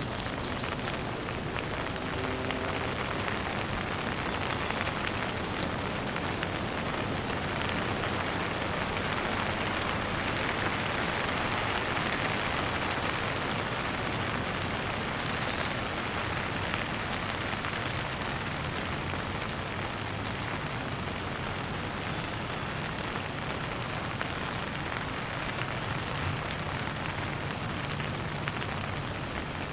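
Steady rain falling, an even wash of drops, with one short high-pitched bird chirp about halfway through.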